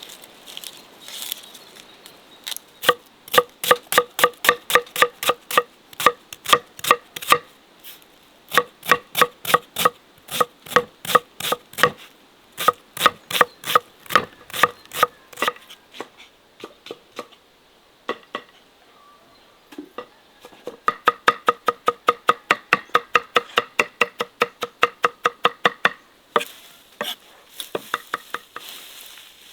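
A knife chopping food on a cutting board in runs of quick, even strokes, about three a second, with a quieter stretch in the middle and a faster run of about five strokes a second in the second half.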